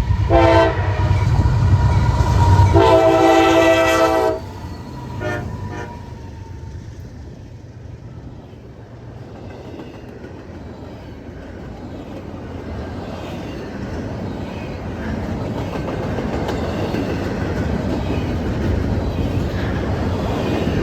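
CSX freight locomotive's air horn sounding a short blast, then a longer one. Then the train's rumble, fading and building again toward the end as it rolls by.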